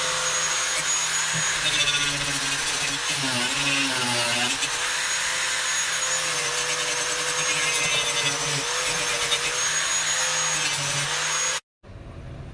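Dremel-style rotary tool grinding down high points of cured gap-filler foam. Its high motor whine sags and recovers as it is pressed into the work and eased off, and it stops abruptly near the end.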